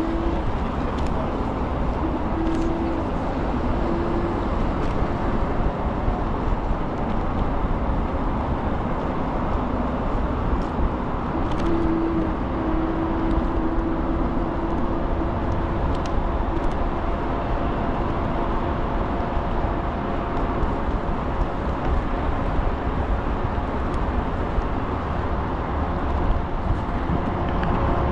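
Ikingi S6 Pro electric scooter riding along: steady wind and road rumble. A faint motor whine rises at the start and comes and goes.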